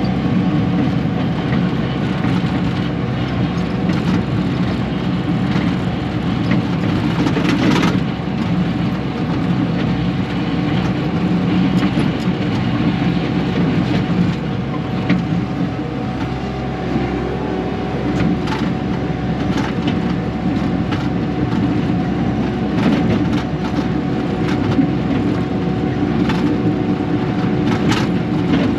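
Bobcat T630 track loader's diesel engine running steadily under work, pushing dirt and rock across a rocky slope. Now and then there is a sharp knock or crack as rocks hit the bucket or each other.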